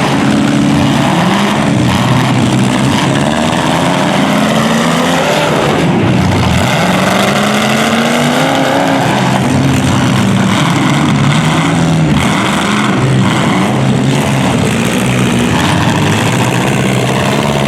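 Several demolition derby cars' engines running and revving at once, their pitches rising and falling and overlapping, over a steady wash of noise.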